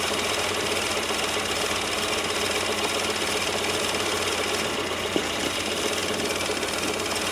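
Peugeot 205's 1.4-litre TU3 single-point-injection four-cylinder petrol engine idling steadily, just after being jump-started from cold in about −10 °C.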